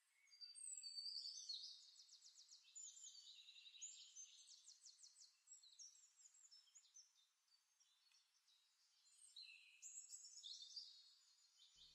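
Faint high chirps and quick trills of small birds, in two spells with a pause of a couple of seconds between them.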